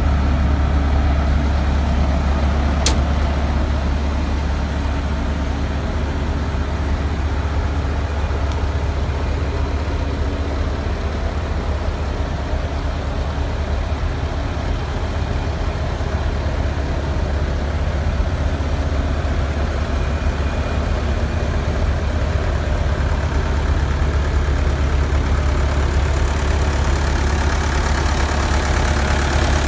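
Bobcat A300 skid steer's diesel engine running steadily at idle, with a single sharp click about three seconds in.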